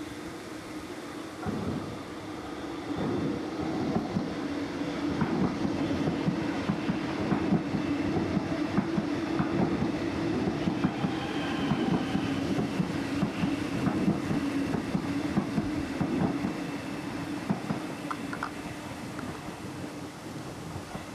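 A train passing over the rail bridge: a steady hum with dense wheel clatter, building over the first few seconds and fading near the end.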